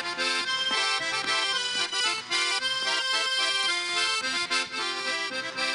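Garmon (Russian button accordion) playing a lively chastushka tune in quick short notes and chords, an instrumental break with no singing.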